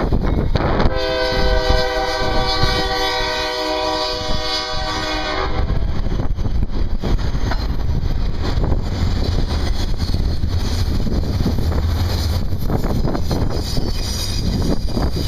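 Diesel freight locomotive air horn sounding one long blast of about five seconds, a chord of several steady tones, over a continuous low rumble.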